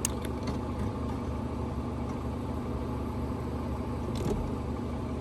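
A steady low engine hum, with a few light clicks near the start and another about four seconds in.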